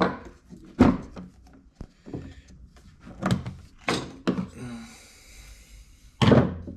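Handling noise: hard objects knocked and set down, about half a dozen separate clacks and thunks, with a light scraping rattle between them.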